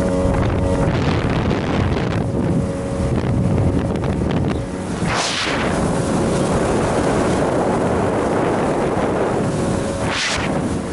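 A boat's engine running steadily under loud wind buffeting the microphone and rushing water. Two brief hissing surges stand out, about five seconds apart.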